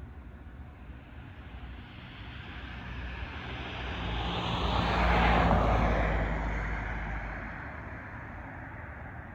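A vehicle passing by, swelling to its loudest about five seconds in and then fading away, over a steady background hum.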